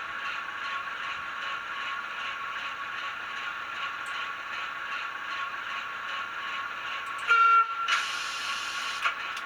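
Sound decoder in an N gauge Graham Farish Class 08 playing a diesel shunter engine running with a steady beat through the locomotive's small speaker. Near the end comes a short horn blast, followed by louder, noisier engine sound.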